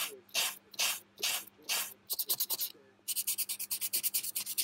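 Hand scrubbing of the steel parts of vintage vernier calipers with an abrasive to remove rust: even back-and-forth strokes, slow at first, then quicker and shorter from about halfway through.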